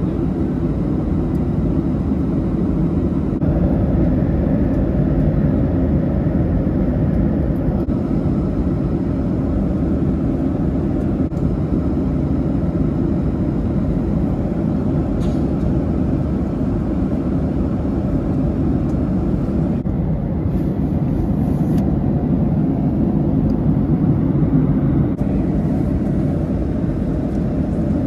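Cabin noise inside a Boeing 737-800 in flight: a steady, loud hum of engines and airflow, strongest in the low range.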